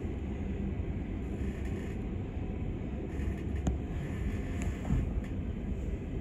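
Train running over a railway flyover, heard from inside the carriage: a steady low rumble of wheels on rails, with a few sharp clicks in the second half.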